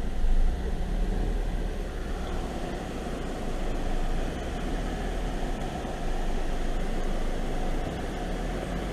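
Car driving slowly, its engine and tyres making a steady low rumble heard from inside the cabin.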